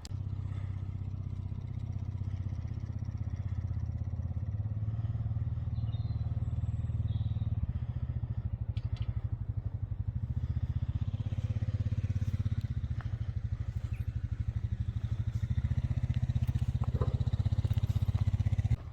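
An engine running steadily with a low, rapidly pulsing beat.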